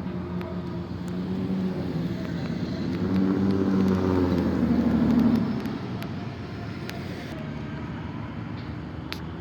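A car driving slowly past, its engine growing louder and peaking about three to five seconds in, then dropping away to a steadier, quieter engine sound.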